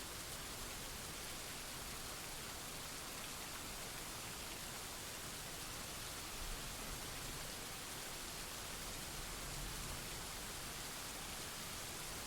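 Steady rainfall, an even hiss of rain falling on surfaces with no thunder clap.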